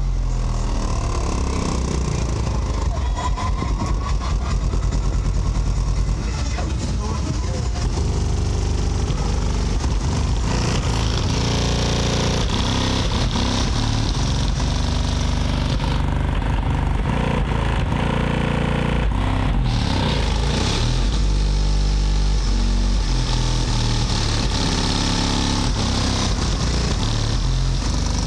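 Car audio system playing music loud, dominated by deep subwoofer bass. The bass notes step up and down in pitch.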